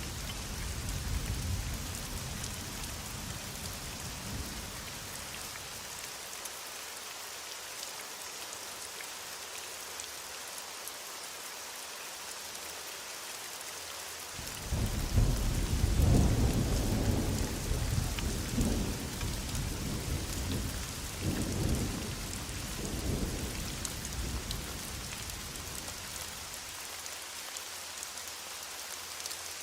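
Heavy rain falling steadily, with thunder: a low rumble fades out in the first few seconds, and about halfway through a loud thunderclap breaks in and rolls on in several pulses for about ten seconds before dying away.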